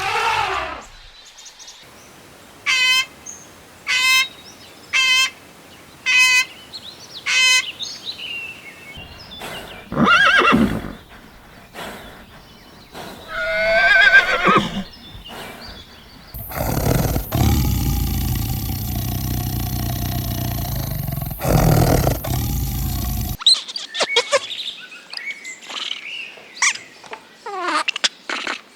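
Farm animal calls from several different animals in succession: first five short, evenly spaced high calls about a second apart, then a run of other cries, some over a steady noisy background.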